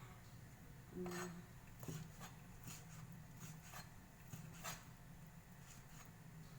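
Faint kitchen handling sounds: about five light knocks and clinks of utensils or cookware, spaced roughly a second apart, with some rubbing, over a low steady hum.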